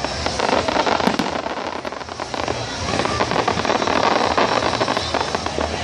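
Fireworks crackling and popping continuously: a dense stream of many small cracks with no single big bang standing out.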